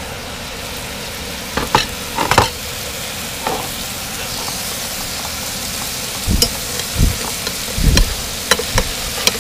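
Catfish fillets frying in butter in a pan, a steady sizzle throughout. A slotted metal spoon clinks and scrapes against the pan several times, and a few dull thumps come near the end.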